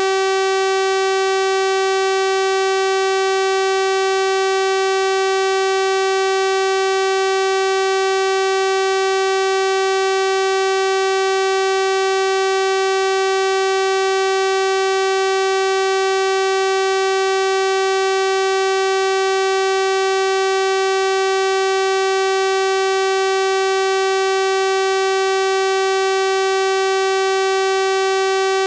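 Electronically generated 384 Hz sawtooth-wave tone held steady, a bright buzzing pitch rich in overtones, with no change in pitch or loudness.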